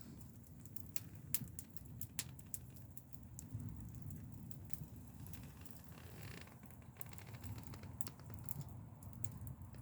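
Faint wood campfire crackling: scattered small irregular pops and clicks over a low steady rumble.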